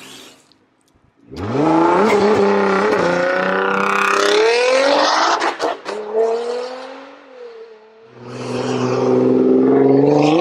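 2020 Nissan GT-R's twin-turbo 3.8-litre V6 exhaust. It is nearly quiet at first; about a second in it opens up into a hard, loud acceleration with the pitch sweeping upward, and a few sharp cracks come near the middle. The engine then eases off with a falling tone before a second full-throttle pull, its pitch climbing, near the end.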